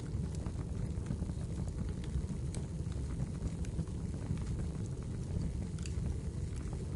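Fireplace fire crackling: a steady low rumble of flames with scattered sharp pops and snaps.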